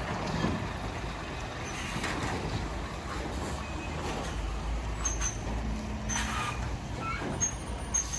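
Road traffic: a steady low rumble of passing cars and trucks, with a few short high chirps in the second half.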